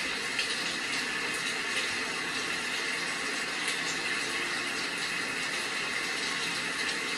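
Steady rain: an even hiss with faint scattered patter of drops.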